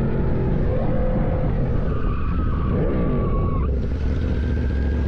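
Motorcycle engine running on the road with road noise. A whine glides down and stops a little past the middle, and a steady high whine sets in about four seconds in.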